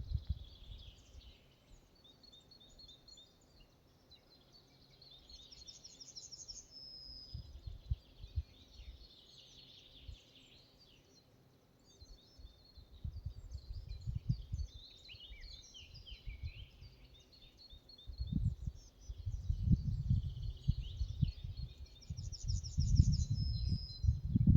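Forest birdsong, with several birds calling and one repeating a trilled phrase that ends in a short held note, heard twice. Gusts of wind rumble on the microphone, strongest in the second half.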